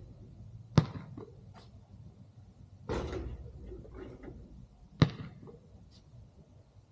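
Two sharp thumps of a basketball striking a hard surface, about four seconds apart, with a brief noisy rush between them.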